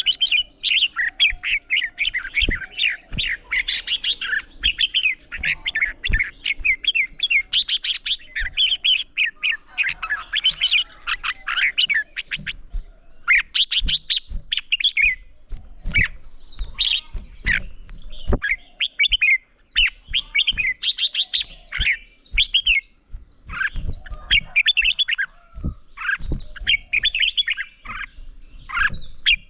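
Red-whiskered bulbuls in competitive song, a rapid, dense stream of chirping, warbling phrases, most continuous in the first half and breaking into shorter bursts with brief gaps later.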